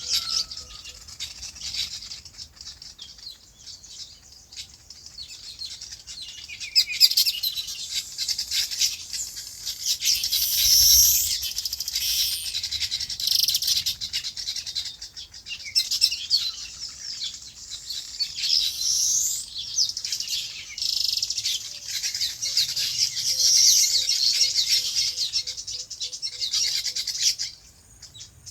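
Many small birds chirping together in a dense, continuous chorus of high calls, busier from several seconds in and falling away briefly near the end.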